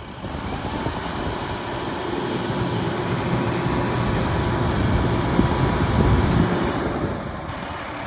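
Diesel engine of an International Workstar 7300 bucket truck running at high idle with the PTO engaged, while the hydraulic outriggers are lowered. A steady mechanical rumble grows louder toward about six seconds, then eases off about seven seconds in.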